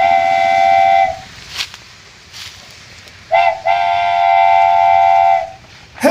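A horn sounding two steady blasts, several notes together like a chord: the first ends about a second in, the second starts a little after three seconds and lasts about two seconds.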